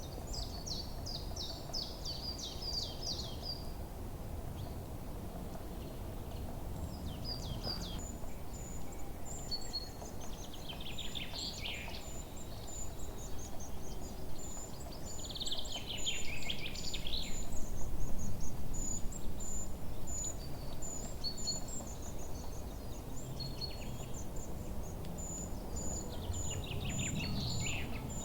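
Forest ambience: songbirds singing, with quick chirping phrases at the start and a descending trill that comes back three times, over a low steady rumble. From about a third of the way in, a regular high-pitched chirp repeats over and over.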